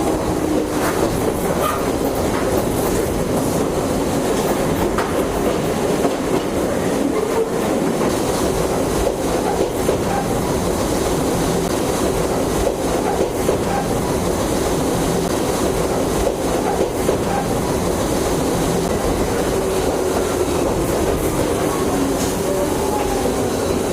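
JNR 101 series electric train running, wheels clacking steadily over rail joints, with faint tones that glide slowly in pitch near the start and again near the end.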